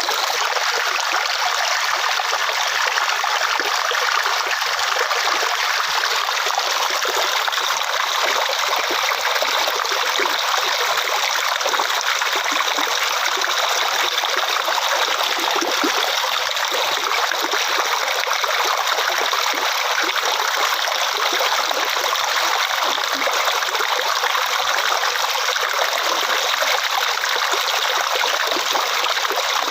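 Water flowing and trickling steadily over rocks in a stream, an even rushing babble with no breaks.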